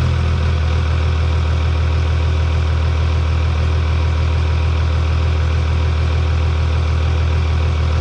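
Cummins diesel engine of a 2000 hp drag truck idling steadily on a freshly built stock tune set up for its dual injection pumps, with post injection turned off; it now idles smoothly instead of running rough.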